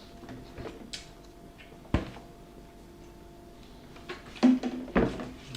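Eating and handling sounds at a table: a few sharp knocks and clicks, the loudest about two seconds in and near the end, with a small cluster of sounds just before that.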